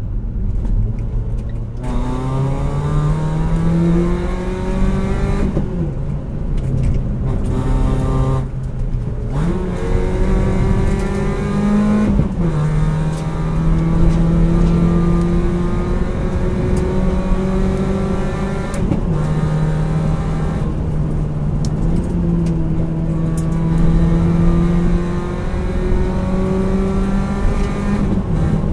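Renault Twingo RS engine heard from inside the cabin, pulling hard up through the gears. Its pitch climbs and drops sharply at each upshift, three times in the first half. It then holds a steadier pitch under light throttle changes, over steady road rumble.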